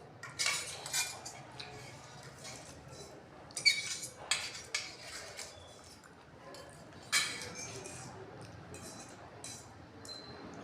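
Cutlery and dishes clinking and scraping during a meal, in scattered sharp clicks that bunch together near the start, around four seconds in, and again about seven seconds in.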